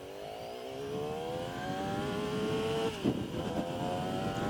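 Yamaha R6 sport bike's inline-four engine under way, its revs climbing steadily as it accelerates, with a short break about three seconds in, like a gear change.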